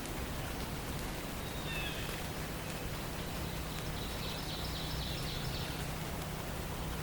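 Steady hiss of forest ambience, with a few songbird calls over it: short high notes about two seconds in and a rapid high trill in the middle.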